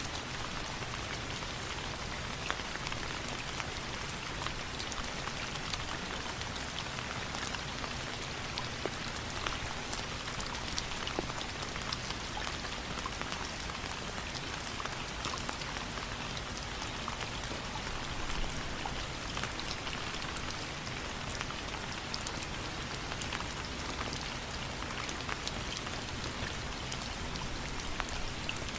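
Steady rain falling, an even hiss with a constant scatter of small, sharp ticks.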